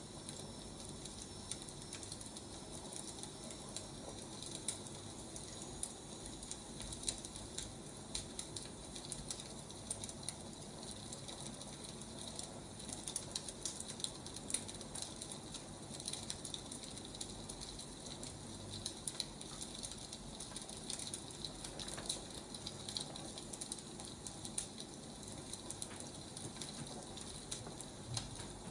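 Burning firewood crackling steadily, with many small quick pops and snaps over a soft hiss.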